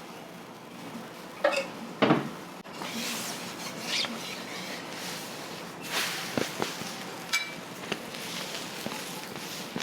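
Scattered clinks and knocks of metal utensils and dishes in a restaurant kitchen, with two louder strikes about two seconds in and a short metallic ring about seven seconds in.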